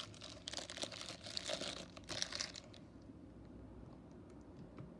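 Hands rummaging through die-cast toy cars and their plastic packaging: a flurry of crinkling and small clicks for about the first two and a half seconds, then it goes quiet.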